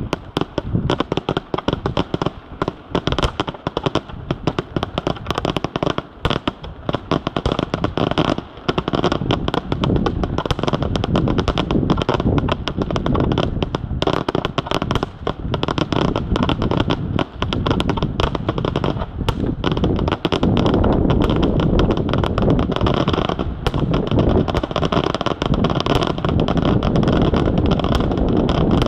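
Fireworks display: aerial shells bursting in rapid, overlapping bangs and crackles, sparser in the first seconds and nearly continuous in the second half.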